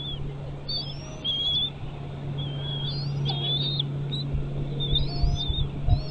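Bald eagle calling: a series of short, high whistled chirps that rise and fall in pitch, over a steady low hum.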